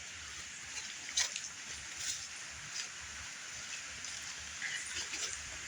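River water running steadily, with a few light clicks over it.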